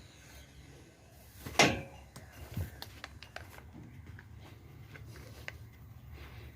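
A single sharp knock about a second and a half in, then a duller thump and scattered light clicks; no engine is running.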